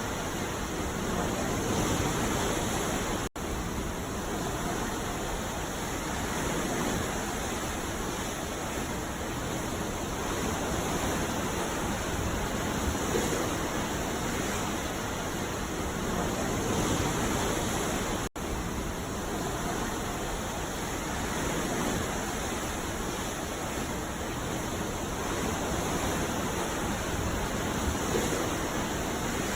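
Ocean surf on a beach: a continuous dense wash of breaking waves with gentle rises and falls in level. It drops out for a split second twice, about three seconds in and again near eighteen seconds.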